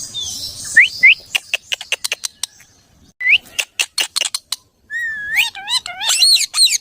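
Pet parrot whistling and chirping: a few short rising whistles, a quick run of sharp clicks, then a longer warbling call that wavers up and down near the end.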